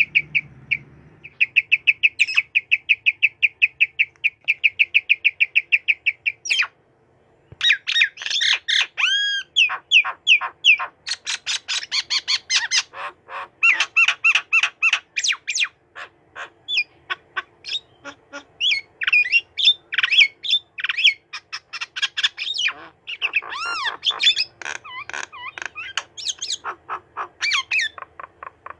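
White-rumped shama singing. First comes a steady run of repeated sharp notes, about four or five a second, then, after a brief break, a fast, varied song of whistles, slurred glides and chattering notes.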